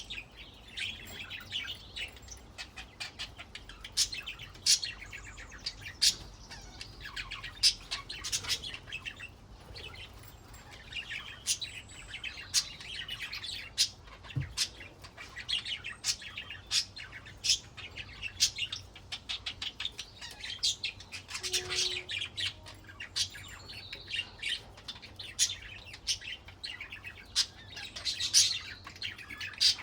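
Budgerigars chattering and warbling, with many short sharp chirps and clicks coming irregularly all through.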